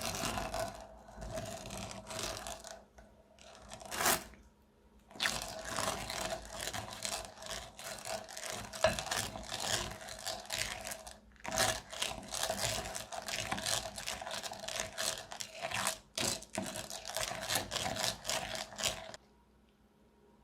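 Crunchy slime being worked by hand, giving off a dense run of crackling with a few short pauses. It stops about a second before the end.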